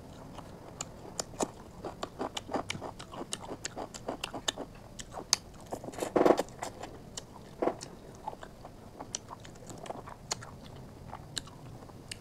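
Close-up sounds of a person chewing a mouthful of chicken curry and rice eaten by hand: many small wet clicks and smacks of the mouth, with a louder, longer mouth sound about six seconds in.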